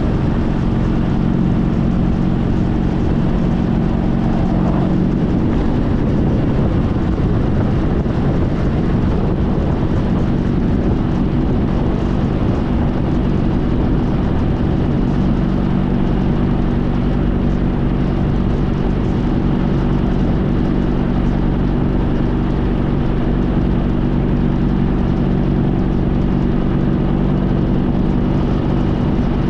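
Honda CTX1300's V4 engine running steadily while the motorcycle is under way, over a constant rush of wind and road noise. The engine note shifts around five seconds in, then settles again.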